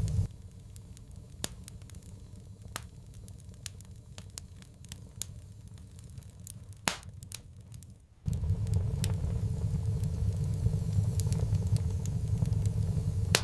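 Wood fire crackling, with scattered sharp pops. A low rumble of flames under it drops away just after the start and comes back suddenly about eight seconds in.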